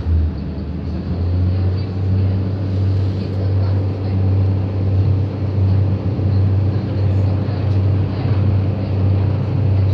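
Train running on the rails: a steady low drone with a continuous rumble of rail noise.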